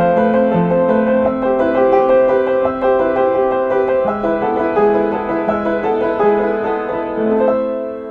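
Solo piano music: a melody over a moving bass line, settling into a held chord near the end.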